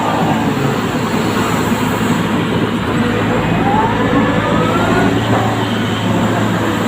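Excavator running steadily with a constant low hum, with a high squeal that rises in pitch about three to five seconds in.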